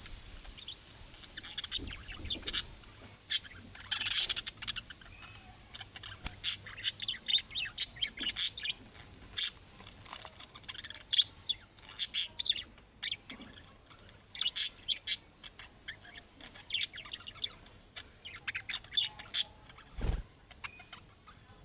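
Budgerigars chirping and chattering in a quick, irregular run of short high chirps, with a single low thump near the end.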